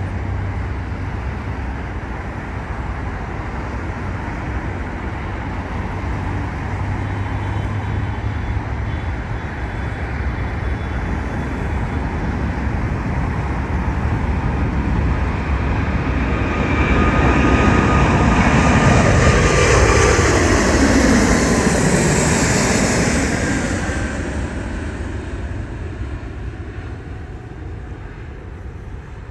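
Airbus A380's four Engine Alliance GP7270 turbofans at takeoff thrust. A steady roar builds as the airliner approaches and is loudest about two-thirds of the way through, where a hiss peaks and the engine tone falls in pitch as it passes. The roar then fades away.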